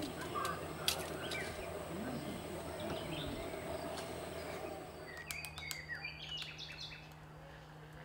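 Several wild birds chirping and calling over a steady outdoor background. About five seconds in the background changes and a quick cluster of sharp chirps and clicks follows, then the calls thin out.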